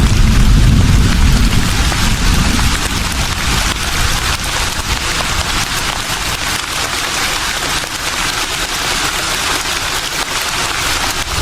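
Leaves rustling steadily in a breeze, a dense even hiss. A low rumble of wind is strong at first and eases off after about three seconds.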